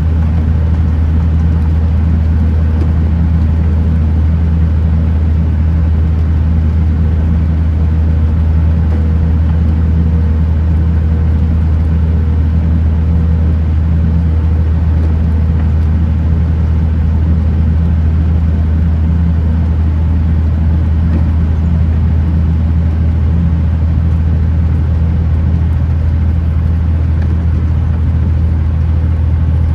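Kenworth T909 truck's diesel engine running at a steady cruise, a deep even drone with road noise over it and no change in revs.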